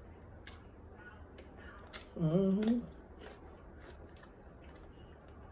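Close-miked eating: faint mouth clicks and chewing, with a short hummed "mm" that rises slightly in pitch about two seconds in.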